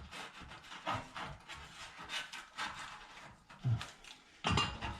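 Masking tape being pulled off the roll and pressed onto a metal plate, with scraping and a couple of louder knocks from handling the metal in the second half.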